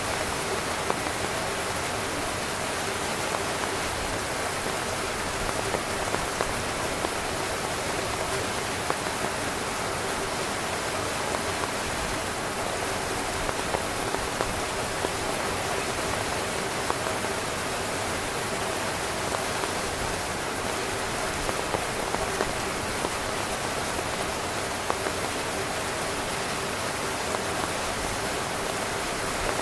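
Heavy rain drumming steadily on a tent's fabric, a dense even hiss with many separate drop hits ticking through it.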